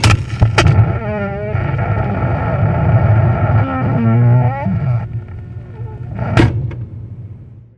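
Door hinges creaking as a door swings: a click at the start, two wavering squeals about one and four seconds in over a rough grinding noise, and a knock about six seconds in.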